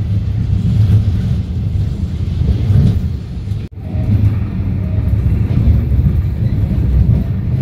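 Passenger train running along the track, a steady low rumble heard from inside the carriage, with a brief cut-out in the sound about halfway through.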